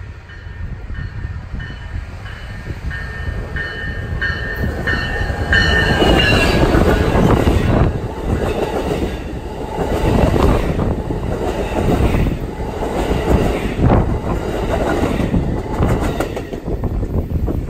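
A train passing, loud from about six seconds in, with a dense rumble and wheel clatter that fades slightly near the end. Before it arrives, a high ringing repeats about one and a half times a second.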